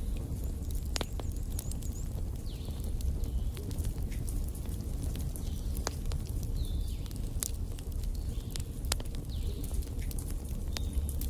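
Wood fire burning in a fireplace: a steady low rumble of flames with sharp crackles and pops from the logs every second or so.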